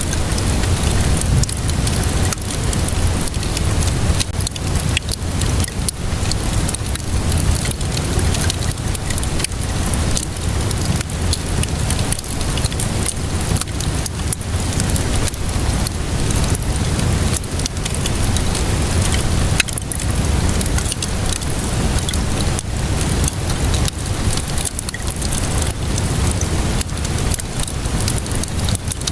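Steady rainfall mixed with a wood fire crackling: many sharp pops and snaps over a constant hiss and a low rumble.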